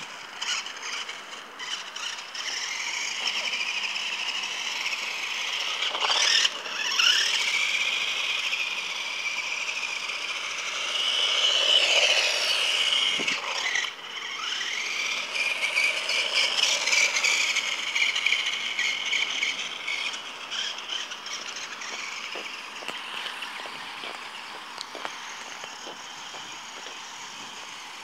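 RC car's electric motor whining as the car speeds up and slows, its pitch rising and falling over and over, with some rattling. It fades over the last several seconds.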